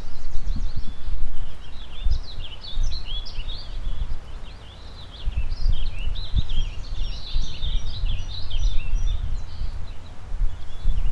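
Chorus of small songbirds chirping and singing at once, many short overlapping notes, over gusts of wind buffeting the microphone that ease off briefly in the middle.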